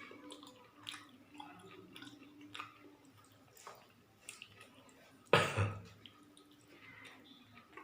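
Close chewing and wet mouth sounds of a person eating gulab jamun, with scattered soft clicks. There is one loud, short noise about five seconds in.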